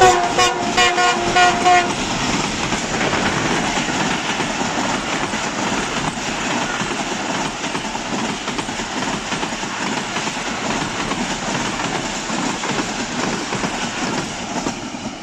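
Diesel locomotive's multi-note horn sounding a quick string of short toots as the engine passes close by, followed by the steady rush and rattle of a long passenger train's coaches rolling past.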